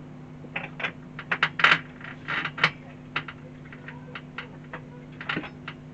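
Irregular light clicks and clinks of small RC car parts being handled while the rear wheels are swapped: hard plastic wheels and small fittings knocking together, about fifteen sharp ticks spread unevenly.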